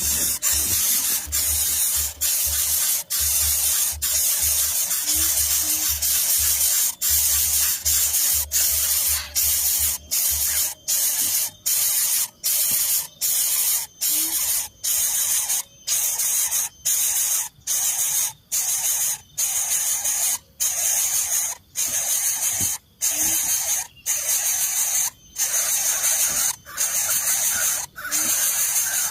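Loud, steady hissing noise, broken again and again by brief silent gaps that come more often in the second half.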